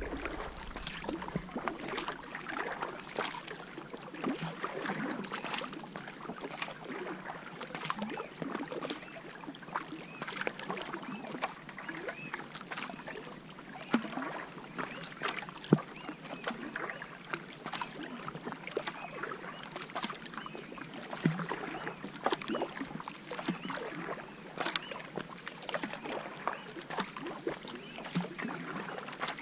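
Kayak paddling on a lake: the paddle dips and splashes, with many small irregular splashes and drips of water.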